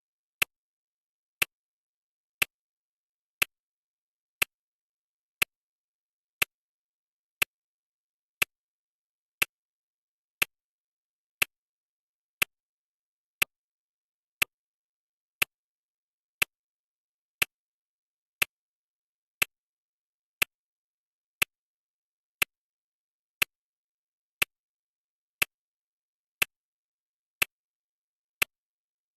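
Clock ticking, one sharp tick every second, with silence between the ticks.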